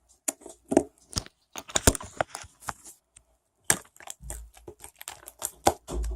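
Irregular sharp clicks and crackles of hands handling small objects, with two low thumps near the end.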